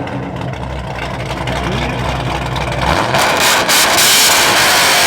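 A muscle car's engine running with a deep, steady rumble, then opened up about three seconds in into a louder, harsher rev that carries on to the end.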